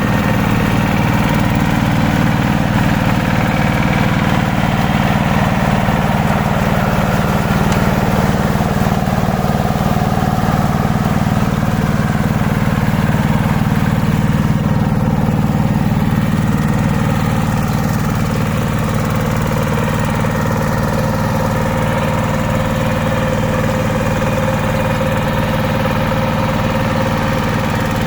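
Hand tractor's engine running steadily with an even, low chugging hum.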